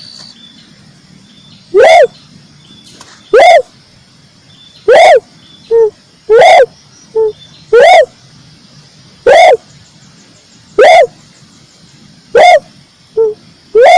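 Red turtle dove (red collared dove) calling: a short, rising-then-falling coo repeated about every one and a half seconds, with a shorter, quieter note slipped in between a few of them.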